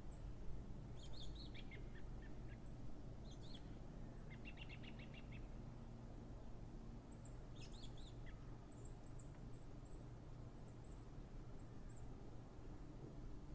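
Small birds chirping over a faint, steady low rumble. Scattered short, high chirps, with a quick rattling trill about four seconds in and a run of little chirps after about eight seconds.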